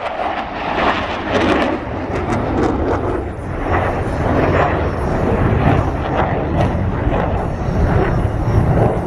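Jet noise from Blue Angels F/A-18 Super Hornet jets flying over: a loud, continuous rushing, with a deep rumble building from about halfway through.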